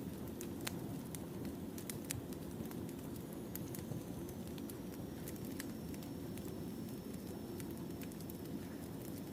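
Firewood burning in a campfire: a steady low rumble of flames with irregular sharp crackles and pops from the wood.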